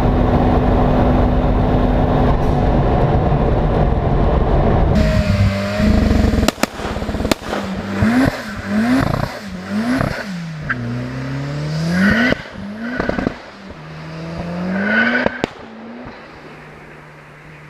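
Engine of a turbocharged Opel Kadett E (Vauxhall Astra Mk2) running hard and steadily at first. About five seconds in it changes to a series of throttle blips, the pitch dipping and rising each time, with sharp bangs from the exhaust among them. It settles to a steady idle near the end.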